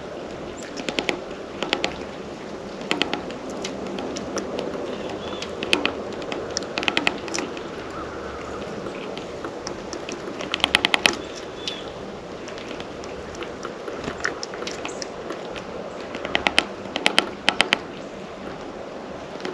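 Small birds pecking and tapping at a feeder, sharp taps coming in quick clusters every few seconds, with a few faint, short chirps between them.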